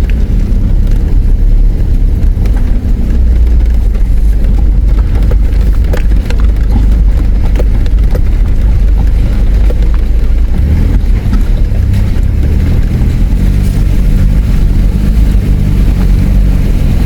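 Four-wheel drive vehicle's engine running as it drives over the rough track at a river crossing. It makes a loud, steady low rumble with occasional knocks and bumps, and the engine note comes through more clearly from about ten seconds in.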